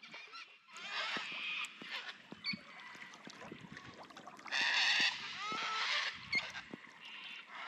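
Birds calling with loud, harsh calls: one about a second in and the loudest from about four and a half to five seconds, with short chirps between. A canoe paddle dips softly in still water underneath.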